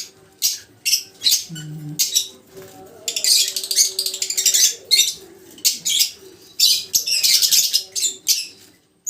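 A young African lovebird chick giving repeated harsh, high-pitched squawks, some single and some in rapid runs, while it is held in the hand to have a closed leg ring slid over its toes.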